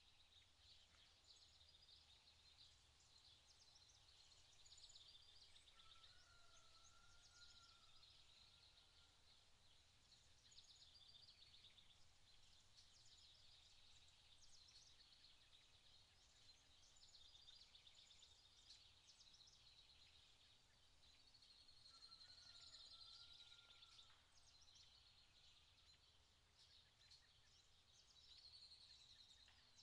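Near silence: faint outdoor ambience with soft, high chirping throughout and a thin wavering whistle heard twice.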